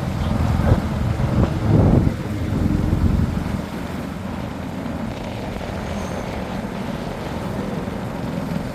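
Motor vehicle running with a steady low rumble of engine and road noise, louder for about the first two seconds, then even.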